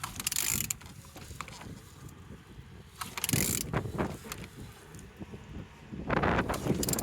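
YE13TXB (L4V19) engine being turned over by hand at the crankshaft, mechanical ratcheting and grinding in three short bursts about three seconds apart. It turns freely, with very strong compression.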